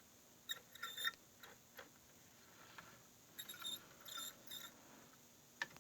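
Model train locomotive's electric motor buzzing faintly in two short, stuttering spurts with light clicks, as it strains to run but barely moves: the engine needs work.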